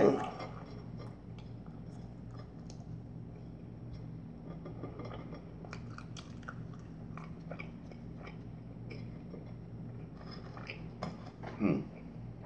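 A person chewing a bagel with cream cheese: soft, wet mouth noises and small scattered clicks over a faint steady hum, with one brief louder sound near the end.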